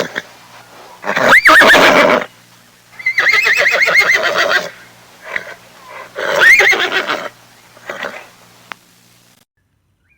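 Horse whinnying: three loud neighs, the middle one long with a quavering pitch, with a few shorter, fainter calls between them.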